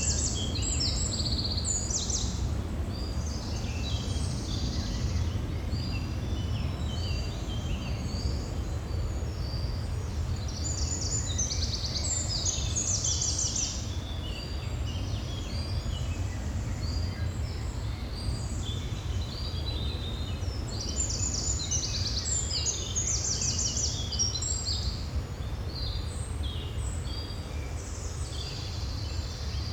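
Several songbirds singing and calling in quick overlapping chirps and trills, over a steady low rumble of background noise.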